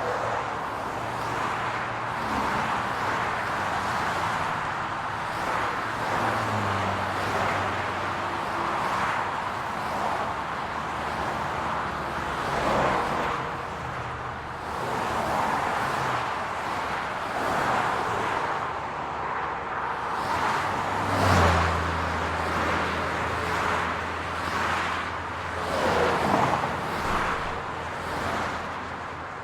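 City road traffic: a steady hum of tyre and road noise under the low drone of engines. The drone gets louder about two-thirds of the way in, and cars pass by with a swelling whoosh around the middle and again near the end.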